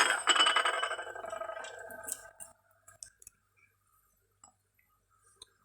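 Kitchenware ringing out after a clink and fading away over about two seconds, followed by a few faint light clicks.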